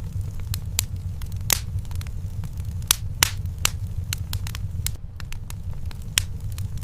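Wood fire burning in a fireplace: irregular sharp crackles and pops, a few each second, over a steady low rumble of the flames.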